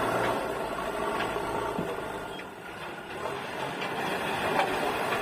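JCB 3DX backhoe loader's diesel engine running steadily under load, with a few sharp knocks and clatters as it works. The engine eases off briefly around the middle, then picks up again.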